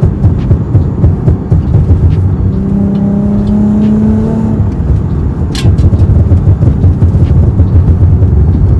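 Lexus IS 350's 3.5-litre V6 through an aftermarket exhaust, burbling with a choppy, uneven low rumble on and off the throttle. A faint tone rises slightly a few seconds in, and there is a sharp click near the middle.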